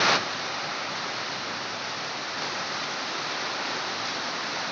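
Heavy rain pouring down in a steady, dense hiss, opening with a brief louder burst.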